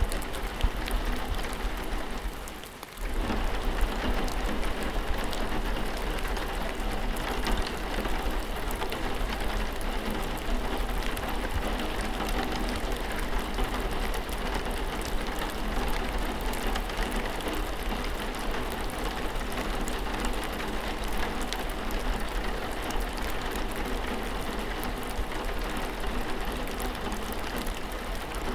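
Steady rain falling, a dense patter of many small drops. The sound thins out briefly about two to three seconds in, then comes back at full strength.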